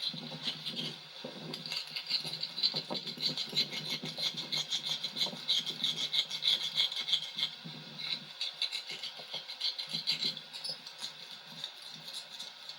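Rapid rubbing and scraping strokes on rubber as a glued valve-stem patch is worked down onto a tractor inner tube. The strokes ease off about ten seconds in.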